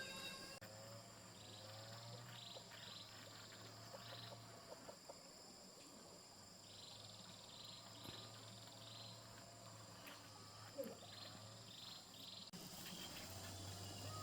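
Faint outdoor ambience of insects chirping: short high chirps in small groups, over a low steady hum.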